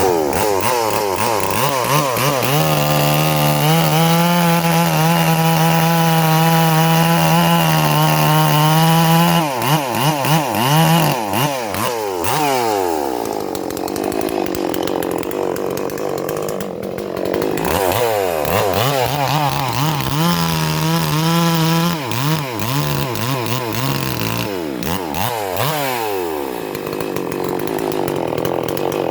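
Stihl MS 440 clone two-stroke chainsaw cutting wood at full throttle, holding a steady high pitch for long stretches. Twice it drops back down in pitch as the throttle eases, then revs up again into the cut.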